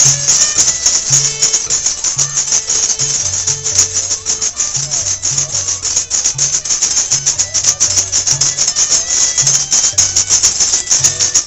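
Folk string band playing an upbeat tune: a bass line alternating between two low notes under a steady, bright shaking rattle.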